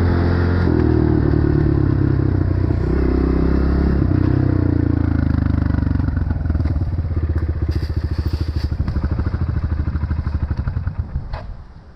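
Dirt bike engine running while riding, its pitch shifting in steps with throttle and gear changes. It then eases off to a slow, even low-rev pulsing as the bike slows, and drops away about a second before the end.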